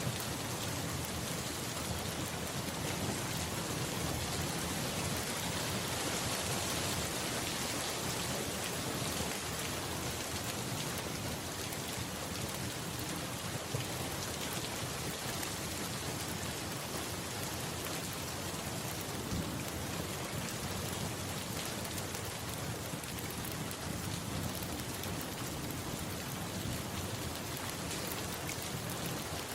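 Steady rainfall, an even hiss of rain on surfaces, with two brief sharper ticks about halfway through.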